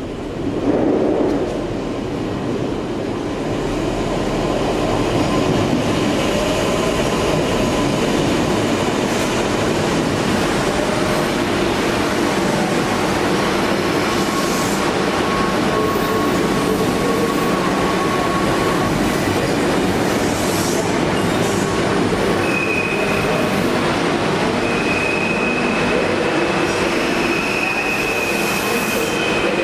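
Train running on the rails with a steady rumble that builds over the first few seconds and then holds. From about two-thirds of the way through, a thin high steady wheel squeal sounds over it.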